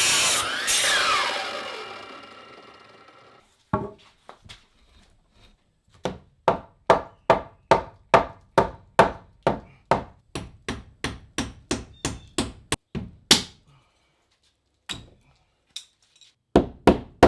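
A harsh rasping tool noise fades out in the first two seconds. After a pause comes a long run of steady hammer blows on wood, about two to three a second, with a few more near the end.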